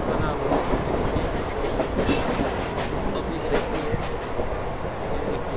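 Mumbai suburban local train running at speed, heard from inside the coach: a steady rumble of wheels on the rails with a few sharp clicks over the rail joints.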